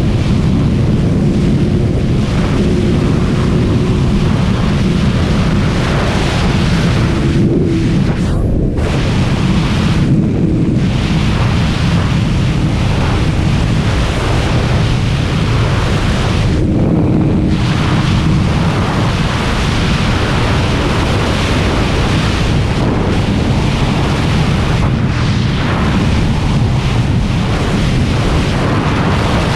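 Heavy wind noise buffeting the microphone of a Kawasaki ZX-636R at highway speed, with the bike's inline-four engine running faintly underneath. The higher hiss drops out briefly a few times.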